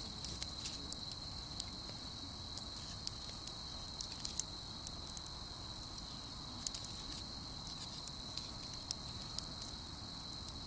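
Wood campfire crackling with irregular sharp pops, over a steady high-pitched chirring of night insects.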